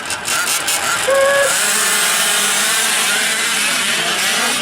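Several 5th-scale RC trucks with small two-stroke gas engines running on the track, a steady, dense engine din that thickens about a second and a half in.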